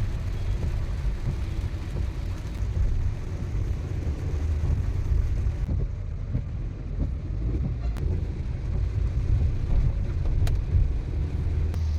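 Car driving, heard from inside the cabin: a steady low rumble of engine and tyres, with a few sharp ticks.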